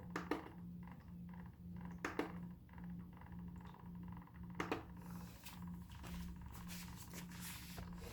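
PureGuardian H965 ultrasonic humidifier running with its replacement DC fan unit: a faint low hum pulsing about twice a second, with a few soft clicks. The mist is now being blown out of the tank nozzle, a sign the new fan works, though it seems weaker than the original.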